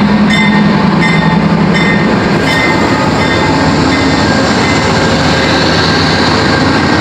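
Train rolling past, loud and steady, with a few sharp clacks of wheels over rail joints in the first couple of seconds, then an even rush of noise.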